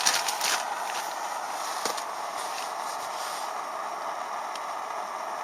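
A few sharp crackles and snaps in the first half-second, over a steady hiss.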